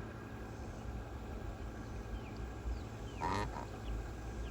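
A chicken calls once, briefly, about three seconds in, over a low steady rumble.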